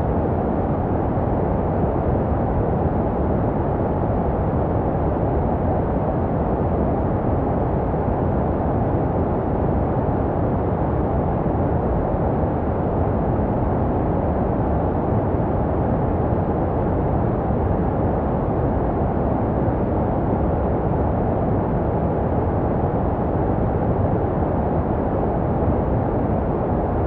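Steady, unchanging white noise for baby sleep, muffled and low-weighted with little in the high range. It is made to resemble the sound a baby hears in the womb.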